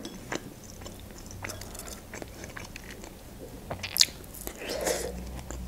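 A person biting into and chewing soft kiwi fruit: small wet mouth clicks throughout, with a sharper bite about four seconds in.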